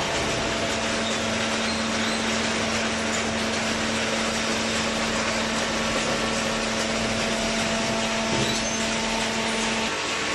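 Hydraulic carton box baler running, a steady machine noise with a steady hum that stops shortly before the end.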